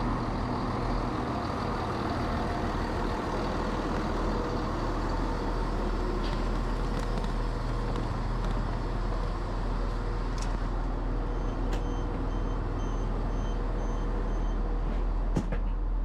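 Diesel multiple-unit train engine rumbling steadily at a station platform. A run of short, evenly spaced beeps about two-thirds of the way through and a few light clicks.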